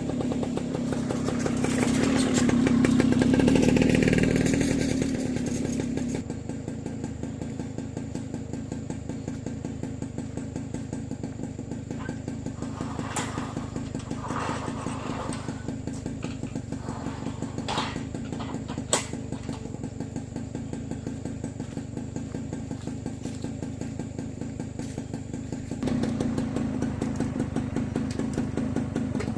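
A small engine running steadily, with an even pulsing hum that swells for the first few seconds and again near the end. A few sharp clicks or knocks come in the middle.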